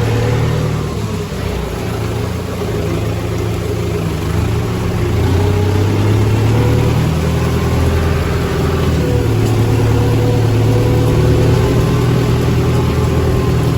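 Tractor engine running steadily under load, its pitch shifting slightly up and down.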